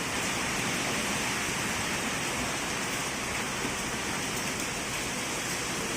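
Heavy rain falling in a steady, unbroken downpour, a dense hiss with no letup.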